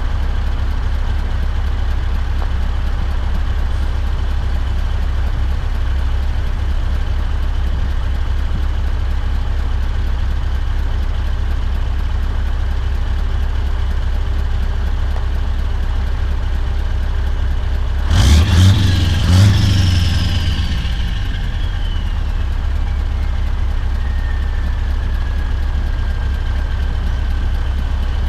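A Scania truck's engine runs with a steady low drone. About two-thirds of the way through come two loud, sudden bursts of sound, then a whistle that falls slowly in pitch over several seconds while the drone carries on.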